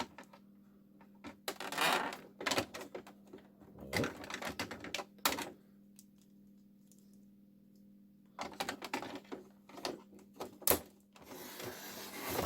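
Hard plastic clicking and rattling in several short bursts as a plastic action figure is handled and fitted into the seat of a plastic toy van, with a pause of about two seconds midway, over a faint steady hum.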